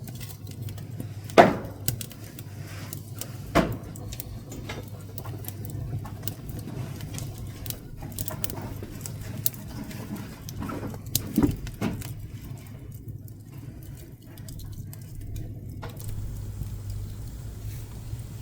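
Pine scrap wood burning in a wood-burning stove, crackling with scattered sharp pops; the loudest come about one and a half and three and a half seconds in and twice around eleven seconds. A steady low hum runs underneath.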